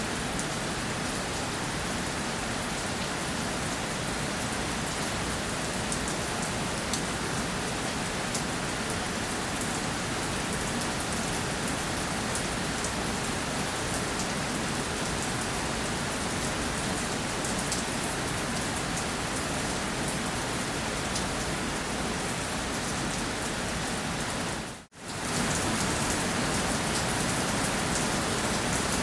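Steady rainfall on a surface, an even hiss with scattered drop ticks. Near the end it cuts out almost to silence for an instant, then resumes slightly louder.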